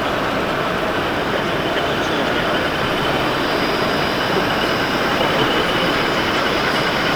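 Train running on rails: a steady rumble and rush of noise, with a thin high-pitched squeal setting in about three seconds in and holding.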